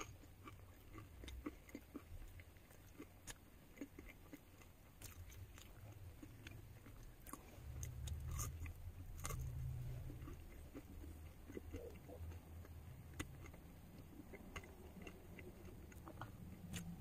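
Faint close-up chewing and biting of food, with scattered soft mouth clicks.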